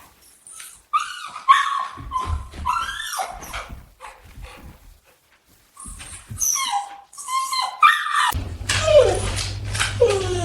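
Dog barking and yipping in short bursts, then whining with a falling pitch near the end.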